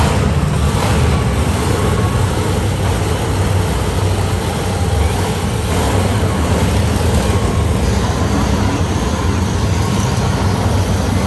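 Monster truck engine running loud and steady, a dense low rumble.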